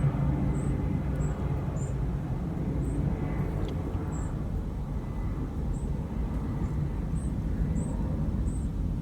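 Steady low outdoor rumble, with a faint high-pitched chirp repeating about every half second.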